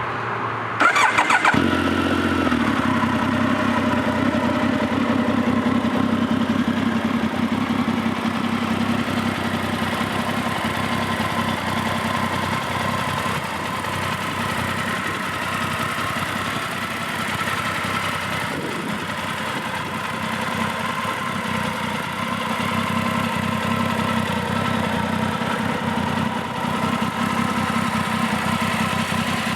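Triumph Speed Triple 595N's 955cc three-cylinder engine started on the electric starter, catching about a second in, running at raised revs that fall away over the next few seconds, then idling steadily.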